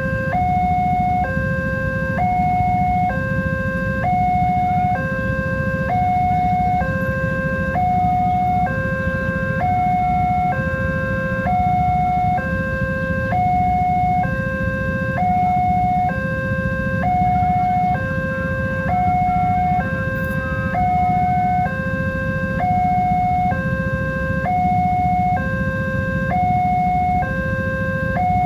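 Electronic warning alarm of a railway level crossing sounding continuously, switching evenly back and forth between two pitches, with a steady low rumble underneath.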